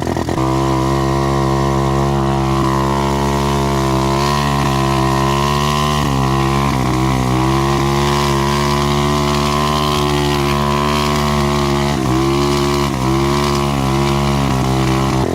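Dirt bike engine running under way, the revs held fairly steady with small rises and dips as the throttle is worked.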